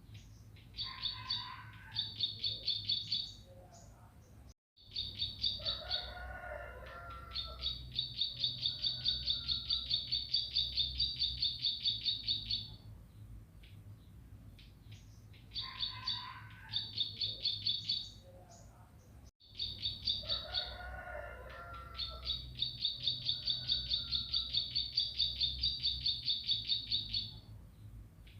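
Bar-winged prinia (ciblek pari) singing: short bursts and then a long, fast run of high, evenly repeated chirps, about five a second, with a few lower notes mixed in. The same song sequence plays twice, as in a looped tutor recording.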